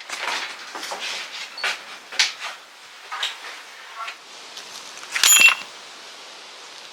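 Metal pieces being handled: a series of scattered knocks and clatters, then a sharp metallic clink with a brief ring about five seconds in.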